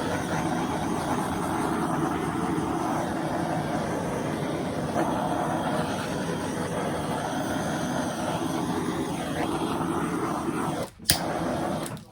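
Compact 1000-watt hair dryer running steadily, blowing out wet acrylic paint in a Dutch pour. It cuts off about 11 seconds in, runs again for a second, then stops.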